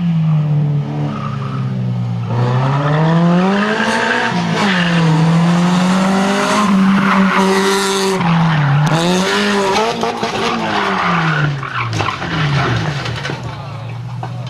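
Racing car engines at high revs, pitch rising and falling again and again as they accelerate and lift, with more than one engine heard at once in the middle.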